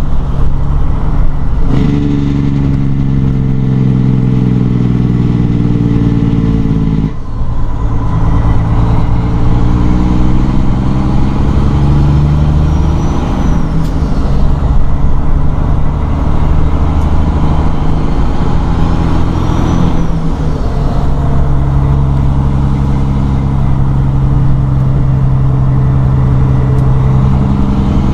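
1997 Peterbilt 378's Detroit 12.7-litre diesel pulling under load through an 18-speed transmission, with brief breaks in the engine note at gear shifts about 2, 7 and 20 seconds in.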